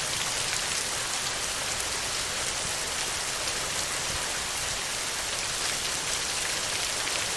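Heavy rain falling steadily on a tin roof: an even hiss of countless drops with no let-up.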